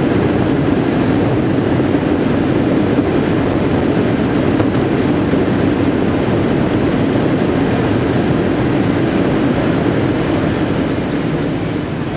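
Loud, steady roar and rumble inside the cabin of a Boeing 737-800 with CFM56 engines during landing, easing off a little near the end.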